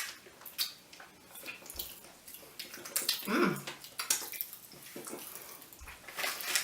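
Popping candy crackling in a mouth: a dense, irregular fizz of tiny pops as the carbon dioxide in the candy is released. A short hummed 'mm' comes about three seconds in.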